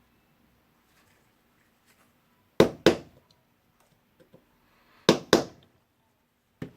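Four sharp metal taps in two quick pairs, a hammer knocking at the small retaining pins of a cordless impact driver's hammer mechanism to drive them out.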